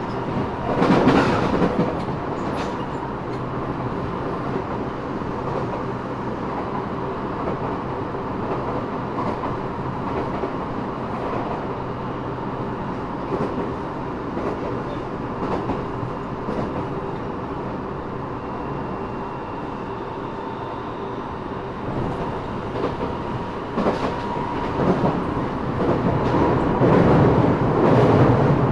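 Eidan 6000-series subway car running at speed, heard from inside the car at floor level. Wheels click over rail joints and a steady high tone sits in the running noise. The noise grows louder and rougher near the end.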